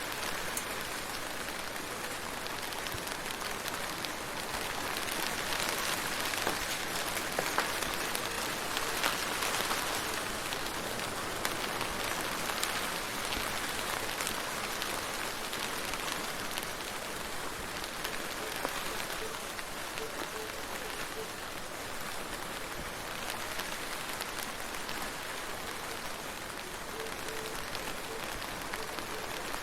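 Steady rain falling: a dense, even hiss with many small drop taps. It grows slightly louder a few seconds in, then settles.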